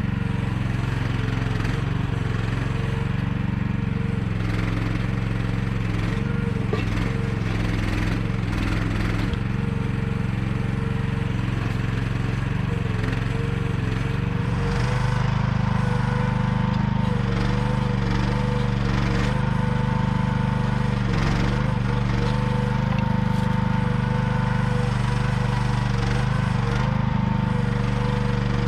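Small engine of a one-ton mini excavator running steadily as it digs, with a cluster of short knocks and scrapes in the first half. About halfway through the engine note steps up slightly and grows a little louder.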